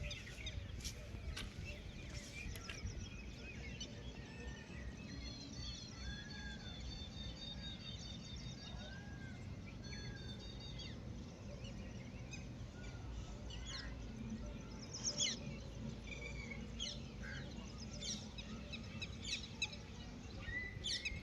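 Several birds chirping and calling, some in quick high repeated notes and others in lower, arching calls, over a steady low background rumble.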